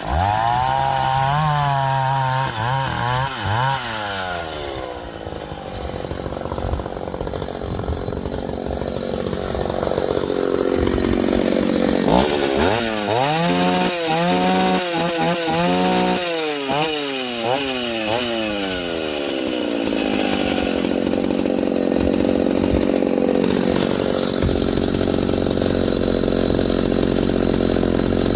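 Vintage Husqvarna L65 two-stroke chainsaw bucking ash logs. The engine revs up and down between cuts, with long stretches of steady running under load in the wood. It seems to be running okay after a small tuning adjustment.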